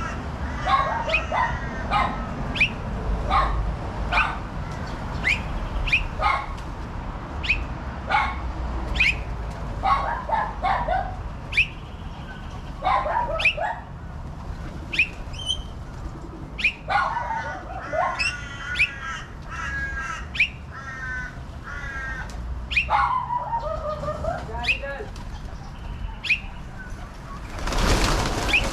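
Birds calling repeatedly at a feeding spot: many short, sharp calls and several longer, harsh calls, with a brief rush of noise near the end.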